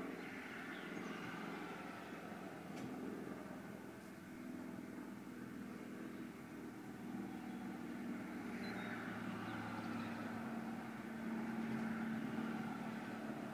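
Car engine idling with a steady hum.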